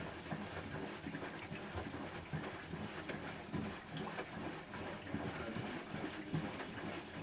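Bosch WAN28220FF washing machine in a synthetics 40 °C wash, its drum turning with water and laundry sloshing in irregular splashes.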